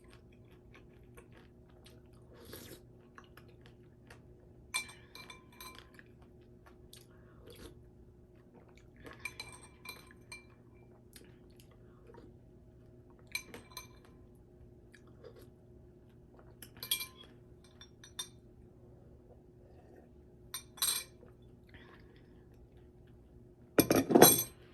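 A metal spoon clinking against a bowl of fruit, coconut water and ice every few seconds, each clink ringing briefly, with quiet chewing between. A louder, duller knock comes near the end.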